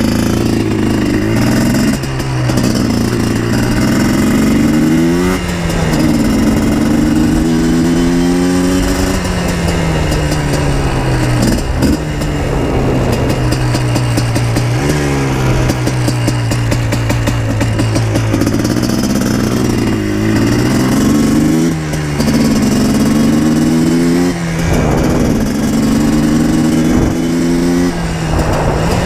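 Yamaha Blaster 200's single-cylinder two-stroke engine under way. Its note climbs and drops back over and over, every few seconds, as it revs up and eases off.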